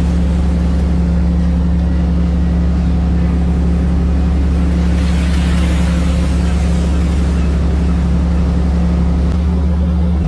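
Deep-sea fishing boat's engines running steadily: a constant low drone with a rushing noise of wind and water over it.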